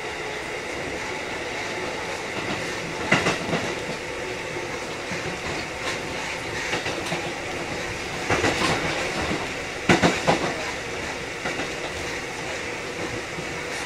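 Kotoden 1080 series (ex-Keikyu 1000 series) electric train running, a steady rolling noise broken by groups of clickety-clack as the wheels pass over rail joints, about three, eight and ten seconds in.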